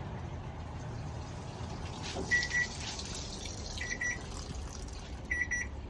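Panasonic NA-V170LMS top-loading washing machine beeping: a short run of quick beeps, first heard about two seconds in and repeated about every second and a half, over a low steady rumble.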